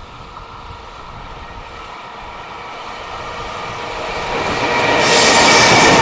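Freight train approaching on the line, growing steadily louder, then reaching the microphone about five seconds in and suddenly much louder as it passes, with a thin high whine over the rail noise.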